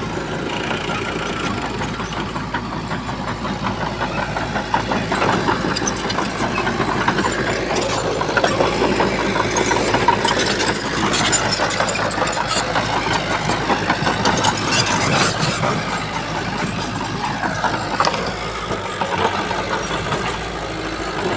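Diesel engine of heavy earthmoving machinery running, with a fine clatter over it; it grows louder through the middle and eases near the end.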